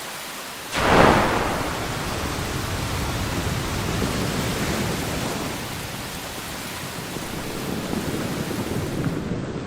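Thunderstorm: a sudden crack of thunder about a second in, fading into steady heavy rain with a low rumble.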